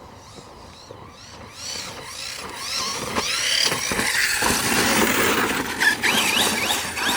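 Electric RC car driving hard, its motor whine rising and falling in pitch again and again as the throttle is worked, over tyre noise. It grows louder from about two seconds in.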